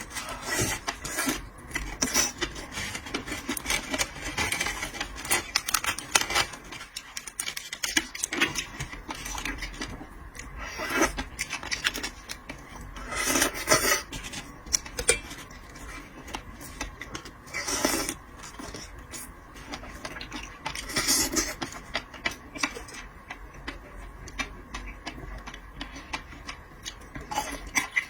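Close-up eating sounds of seafood being eaten: steady clicks and crackles of chewing and handling shellfish, with a few louder crunching or slurping bursts and the clatter of shells or utensils on a plate.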